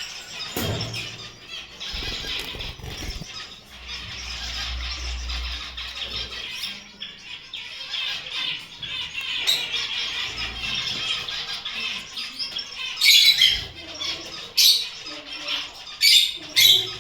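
Gouldian finches chattering: a dense run of small, high chirps, then several short, loud, sharp calls near the end.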